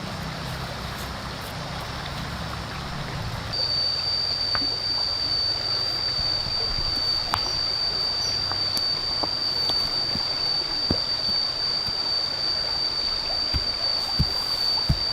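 Running stream water, a steady hiss. A few seconds in, an insect starts a steady high-pitched drone on one pitch that holds on. A few dull low knocks come near the end.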